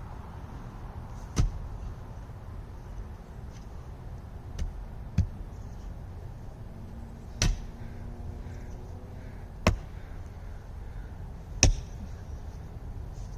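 A hand tool chopping into the exposed roots of a dead cherry tree: about six sharp strikes at uneven intervals of a couple of seconds, the last one the loudest.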